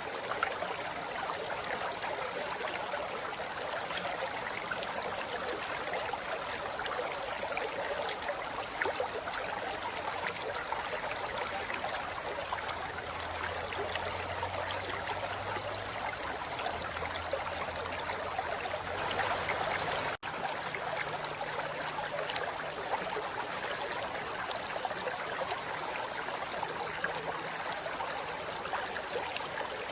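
A forest river running steadily over rocks, a constant rushing and trickling of water. The sound cuts out for an instant about twenty seconds in.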